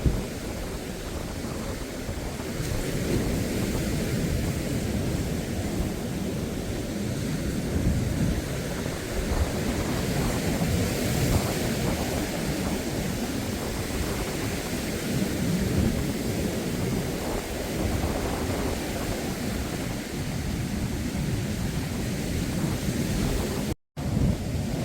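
Wind buffeting the microphone over the steady wash of surf from a rough sea. The sound drops out completely for a moment near the end.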